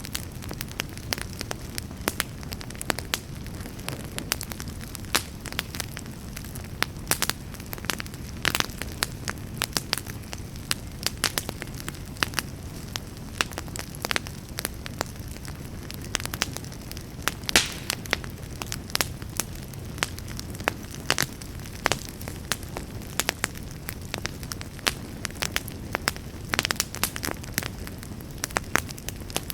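Campfire crackling: frequent irregular sharp pops and snaps over a low, steady rumble of burning.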